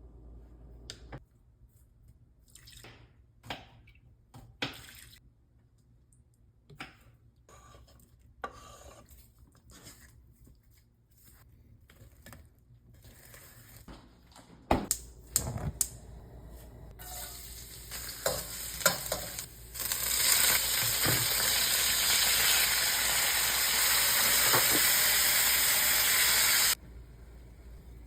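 Kitchen cooking sounds: scattered clicks and knocks of utensils and dishes, then chicken frying in a hot pan, sizzling loudly and steadily for about seven seconds before cutting off suddenly.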